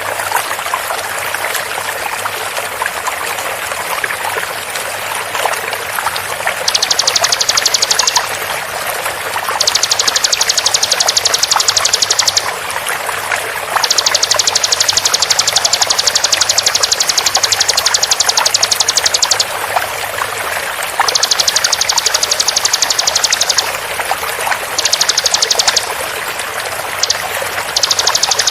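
Bar-winged prinia (ciblek) singing its rapid trill 'tembakan' in repeated bursts of one to five seconds, the notes very fast and tightly packed, starting about six seconds in. Steady running water flows under it throughout.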